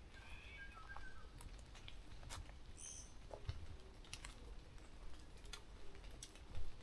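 Quiet forest with scattered small clicks and ticks and a few short bird calls: a couple of brief chirps near the start and a high note about three seconds in. A single louder knock comes near the end.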